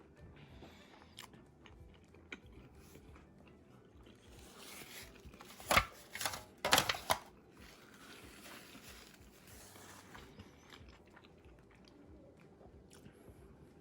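Someone eating a burrito: quiet chewing with small clicks, and a few sharp, crunchy crackles about six to seven seconds in as they bite.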